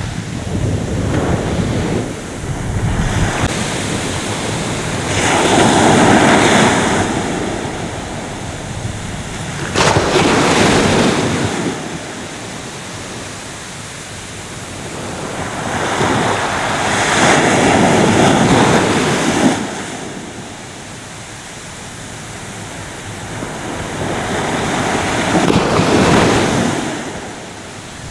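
Ocean waves breaking on a shore and washing back, in slow surges about every six to eight seconds, four breakers in all, the one about ten seconds in starting sharply.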